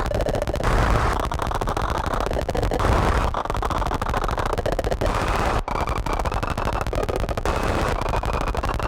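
Harsh, heavily distorted modular-synthesizer noise through fuzz and filter pedals: a dense, rapid crackling texture over a low drone, its brightness shifting every second or so, with faint high tones coming in during the second half.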